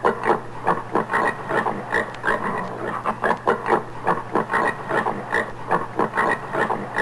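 Common warthog grunting in a fast, even series of short grunts, about four a second.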